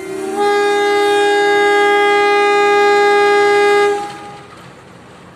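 Train horn sounding one long, steady blast of about four seconds as the train departs the station, cutting off abruptly, with a lower rumble left after it.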